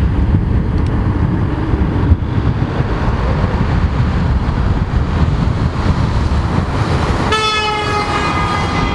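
Avro Lancaster's four Rolls-Royce Merlin V12 engines running under heavy wind buffeting on the microphone, a deep steady rumble. About seven seconds in, a strong pitched droning note with many overtones cuts in and holds.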